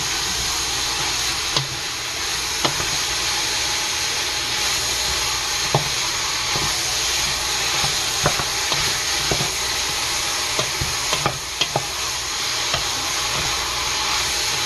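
Chopped meat, onion and garlic sizzling in hot oil in a stainless steel pot, stirred with a wooden spoon that knocks against the pot at irregular moments.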